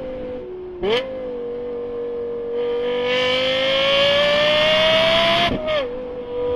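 Lexus LFA's naturally aspirated V10 running at high revs through its exhaust. The note climbs steadily in pitch over several seconds. It is broken twice by quick drops in pitch with a sharp crack, about a second in and near the end.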